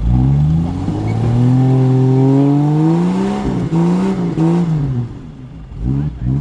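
Jeep engine revving under load as it struggles through a river crossing. The pitch climbs over the first couple of seconds and rises and falls. It drops off about five seconds in, then comes back in a few short revs near the end.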